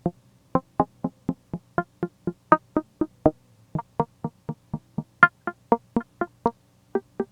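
Layered software synthesizer patch playing a fast sequence of short, plucky notes, about three to four a second with a few skipped beats, the pitch moving from note to note, over a faint low steady hum.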